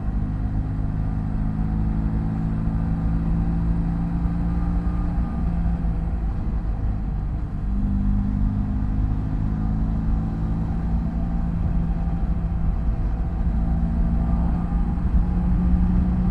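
BMW F800GS motorcycle's parallel-twin engine running at a steady cruise with road and wind rumble. The engine note dips briefly and settles at a new pitch about seven and a half seconds in.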